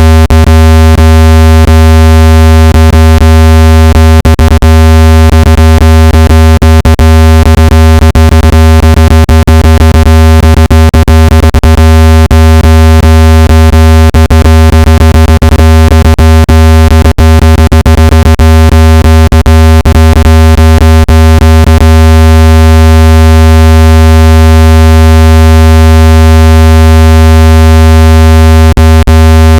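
Loud, steady, low-pitched electronic hum tone with a stack of overtones, peppered with frequent short clicks. It is a speaker water-ejection tone, played at full volume to vibrate water out of a phone or earbud speaker.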